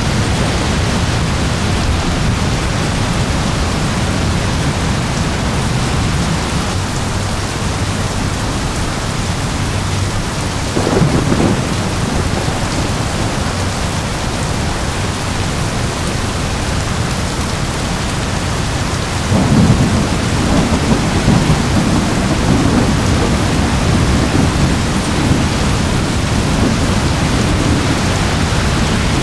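Steady heavy rain with rolling thunder. A short clap of thunder comes about eleven seconds in, and a louder one about two-thirds of the way through, followed by a long, low rumble.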